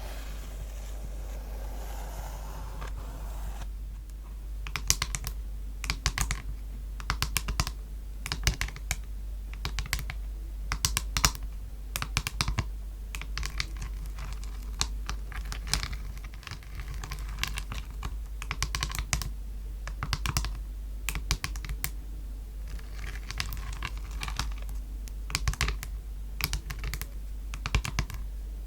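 Quick, irregular tapping on a palette: sharp clicks in clusters of several taps, starting about four seconds in after a brief soft scratching.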